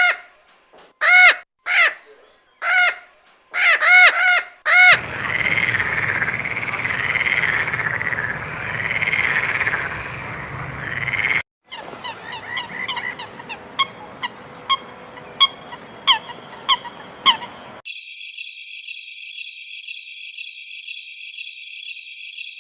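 A series of different animal and bird calls, switching abruptly every few seconds. First come loud, repeated pitched calls. About five seconds in there is a warbling chorus over a low rumble, then a run of quick chirps, and then a steady high-pitched buzz from about eighteen seconds.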